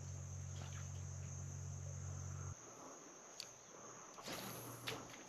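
Steady high-pitched chirring of insects, over a faint low hum that cuts off about two and a half seconds in, with a few soft clicks near the end.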